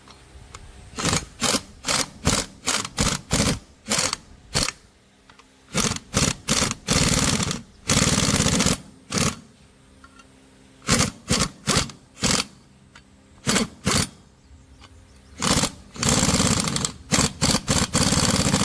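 A power tool run in short repeated bursts, most a fraction of a second, a few about a second long, working on the broken main-stand pivot shaft of a Honda Wave motorcycle.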